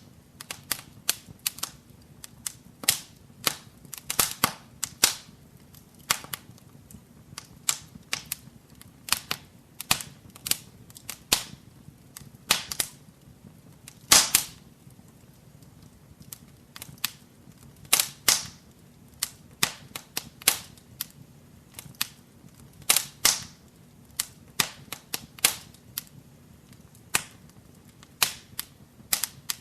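Wood fire crackling in a fireplace: a steady, irregular stream of sharp snaps and pops, a few of them louder, near the middle and about two-thirds of the way through.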